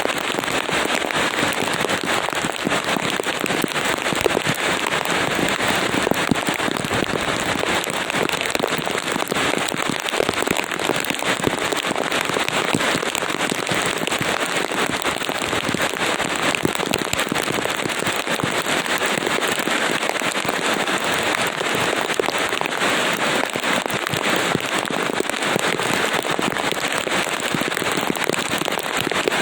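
Steady rain falling, a dense even hiss made up of countless fine drop ticks.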